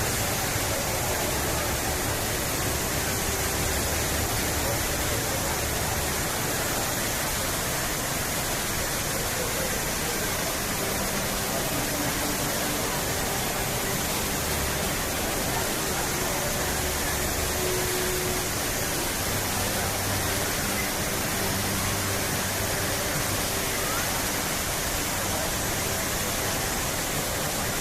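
Steady, unbroken rush of water pouring down a large man-made waterfall, with a few faint held low tones underneath.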